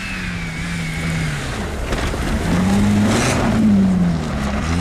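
Suzuki Vitara 4x4's engine revving hard on snow, its pitch sagging and then swooping up and down several times. A brief rushing hiss comes about three seconds in.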